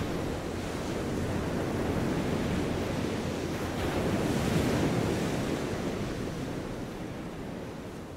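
A steady rushing noise with no tones in it, swelling about four seconds in and then fading out near the end.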